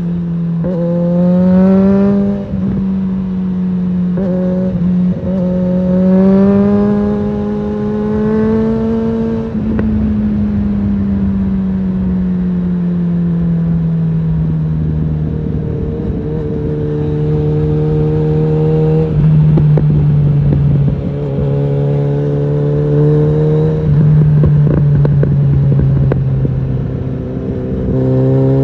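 Suzuki GSF650 Bandit's inline-four engine through an aftermarket Storm exhaust, ridden on the road: it rises in pitch in a few pulls of acceleration, with a brief drop in level near the start of the first, then falls in pitch for several seconds as it slows, before pulling up again several more times.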